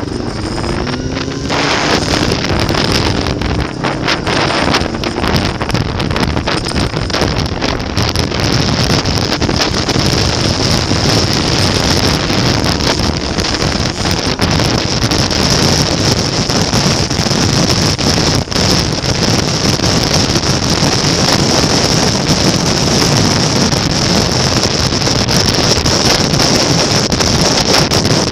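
Motorcycle engine running under steady wind roar on the microphone, as from a bike on the move. A faint engine note shifts in pitch in the first few seconds.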